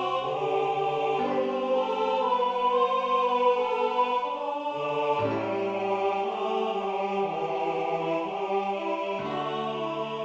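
Slow choral music: voices holding sustained chords, each held for several seconds, changing about a second in, around the middle and near the end.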